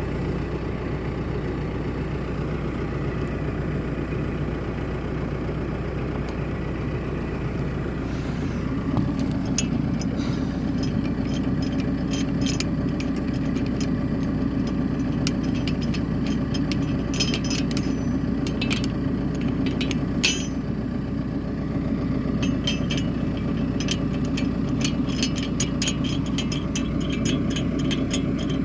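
BCS Volcan K105 compact tractor's engine running steadily, rising a little about nine seconds in, with frequent sharp clicks and clatters over it through the second half.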